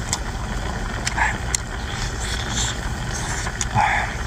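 Boat engine running with a steady low hum, with a few sharp clicks on top.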